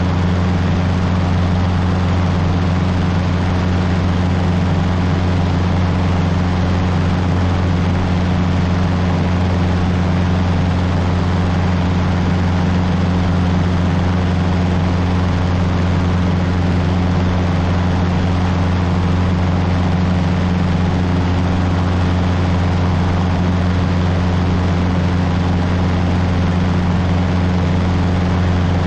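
Cessna 150's four-cylinder Continental O-200 engine and propeller running at a steady power setting in flight, a constant low drone with no change in pitch.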